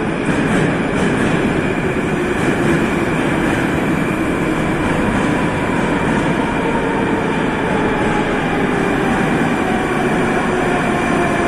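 Moscow Metro train running loudly alongside the platform with a steady rolling noise. Near the end, a whine from the train falls slowly in pitch as it slows.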